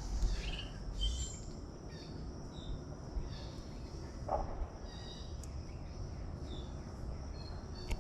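Outdoor nature ambience: a steady high insect trill with scattered short bird chirps over it, and a low rumble underneath.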